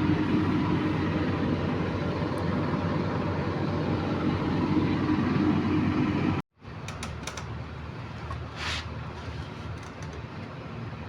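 A machine running steadily with a hum, cut off abruptly about six and a half seconds in. After that a quieter steady noise with a few light clicks and a brief hiss.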